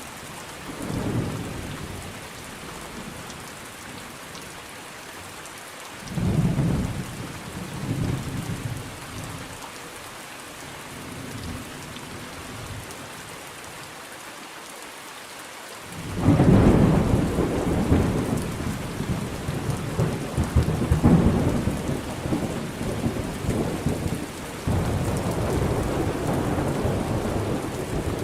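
Thunderstorm: steady rain under rolls of thunder. Short rumbles come about a second in and again around six and eight seconds, then a long, louder peal breaks in suddenly past the halfway point and rolls on to the end.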